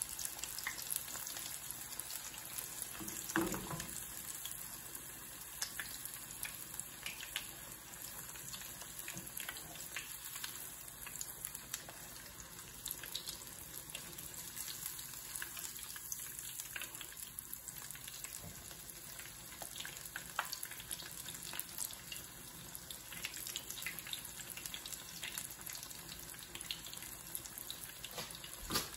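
Breaded pork cutlet shallow-frying in hot oil in a small nonstick pan: a steady sizzle with many small crackles and pops. A single knock a few seconds in.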